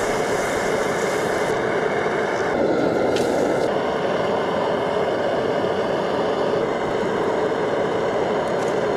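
A steady, loud rushing noise with no clear pitch, with an extra high hiss for the first second and a half.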